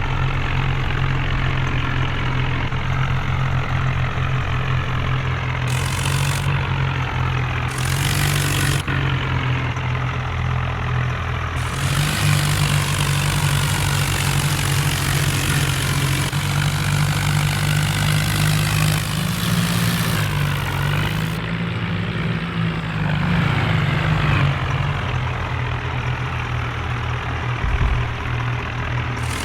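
Heavy diesel tractor engine running steadily and loud, its pitch stepping up about twelve seconds in and wavering up and down around twenty seconds.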